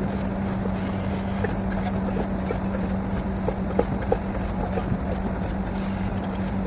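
Borewell drilling rig's engine running steadily with a constant hum, with scattered light clicks over it.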